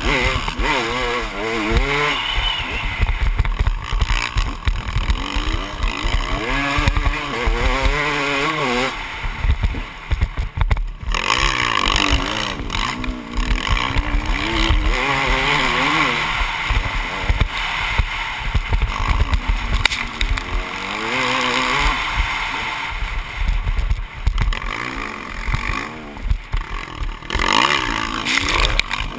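Motocross bike engine revving up and down as it is ridden, its pitch climbing and falling again every second or two, easing off briefly about eleven seconds in.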